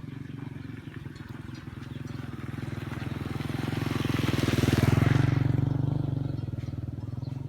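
A motor vehicle passing by: its engine and road noise swell to a peak about five seconds in, then fade. Underneath is a steady low engine drone.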